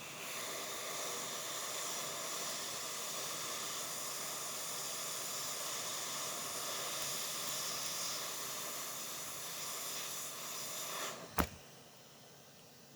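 A steady hiss of blown air that starts abruptly and runs for about eleven seconds, typical of a hot-air station or air blower used in phone and watch repair. It cuts off and is followed by one sharp click.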